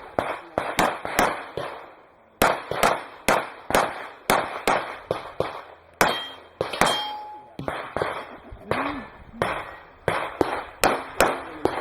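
A rapid string of gunshots in a practical shooting course of fire, about two to three shots a second with a short pause about two seconds in, each followed by a metallic clang of rounds striking steel targets.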